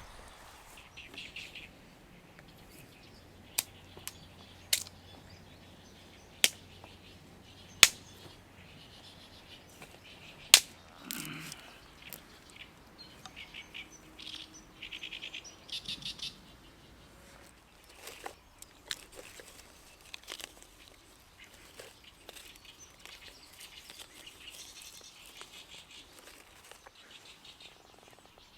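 Small birds chirping and calling, with five sharp knocks or cracks spaced a second or two apart in the first half.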